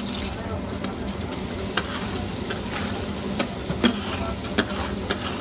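Meat chunks with tomato and green chili sizzling in oil on a large flat griddle, with a steady frying hiss. A metal spatula scrapes and strikes the griddle in several sharp clinks.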